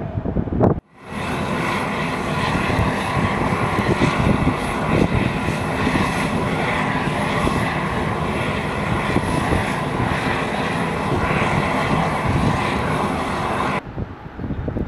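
Aircraft engines running loud and steady at close range, with a thin high turbine whine over the noise. The sound starts abruptly about a second in and cuts off sharply near the end.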